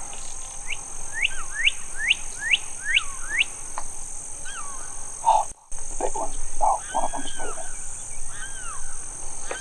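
Wild songbirds singing: a run of about six quick rising whistled notes in the first few seconds, then several arched whistled notes in the second half.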